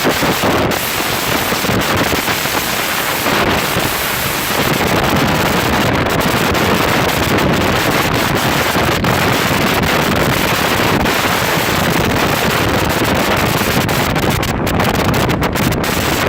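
Strong storm wind blasting over the microphone, a loud continuous rush with a slight easing between about one and four seconds in.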